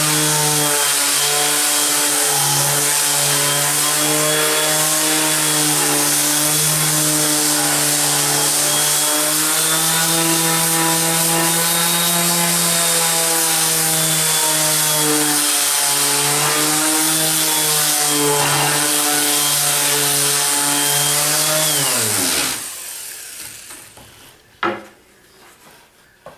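Bosch orbital palm sander running on a red oak board, with a steady motor hum under the rasp of sandpaper on wood. About three-quarters of the way through it is switched off and winds down, its pitch falling. A single knock follows shortly after.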